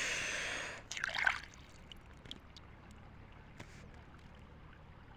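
A brief rush of splashing river water that fades out over the first second, then a faint steady water hiss with a couple of small clicks.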